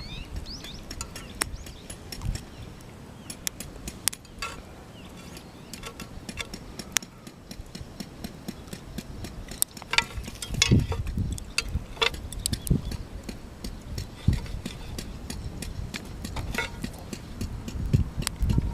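Irregular light clicks and clinks of camp cooking gear being handled, with a few duller, louder knocks about ten to thirteen seconds in and again near the end.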